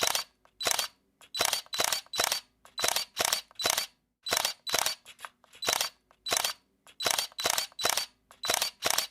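Camera shutter clicking over and over, many releases heard as a quick double click, irregularly spaced at about two to three clicks a second. A faint low hum sits under the clicks.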